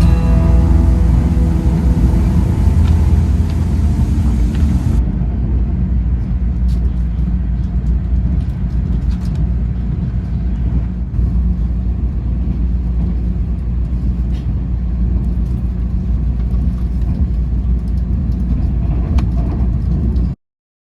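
A song fades out over the first few seconds over a steady low rumble of a moving vehicle, with a few faint clicks. The rumble stops abruptly near the end.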